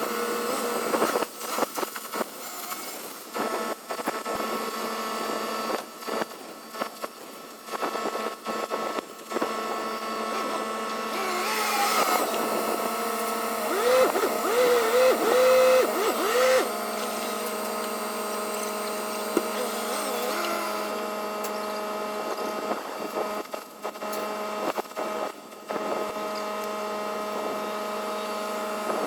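Forklift running: a steady mechanical whine and hum. It grows louder from about twelve seconds in, where a tone wavers up and down for several seconds, then settles back to a steady drone.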